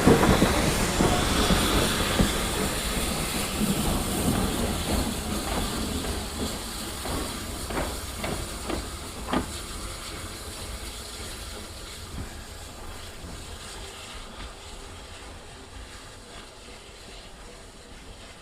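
Steam train moving away and steadily fading, with steam hissing and a few sharp wheel clicks over rail joints around the middle.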